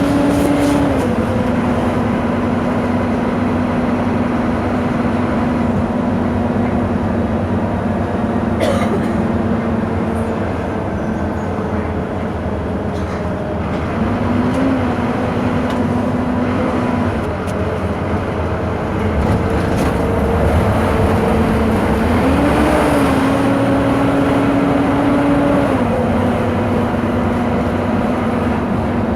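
Scania K230 IB city bus engine running under way with its ZF automatic gearbox. The engine note steps down about a second in, rises briefly around halfway, and rises again about two-thirds through before stepping back down, over steady road and body noise.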